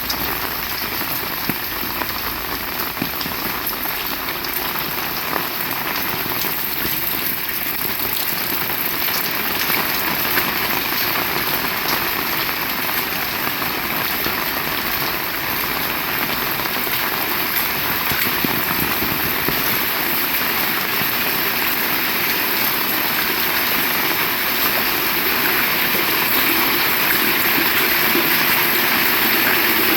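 Heavy rain falling steadily, a dense hiss of countless drops striking surfaces, growing a little louder near the end.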